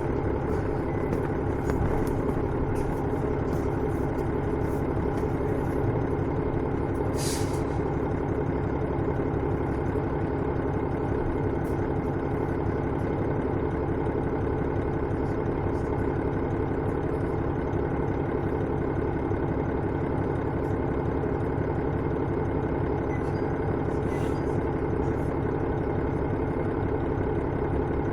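Diesel engine of a KiHa 110 series railcar, heard from inside the car, running steadily with an even drone. A short hiss of air comes about seven seconds in and again faintly near the end.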